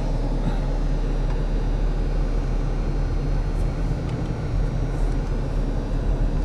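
Car driving: steady low engine and road drone heard from inside the cabin.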